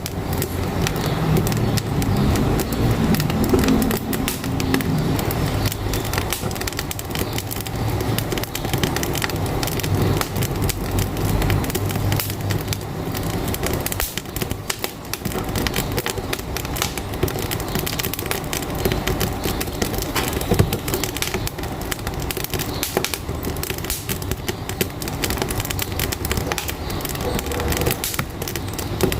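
Wood fire crackling and popping in a wood-burning stove, with the low rumble of a truck engine running alongside, strongest in the first half.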